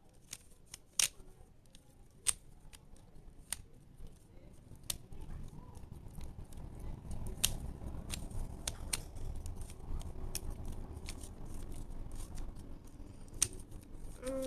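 Plastic twisty puzzle being turned by hand: irregular sharp clicks as the layers are snapped round, with a low rumble of handling building from about five seconds in.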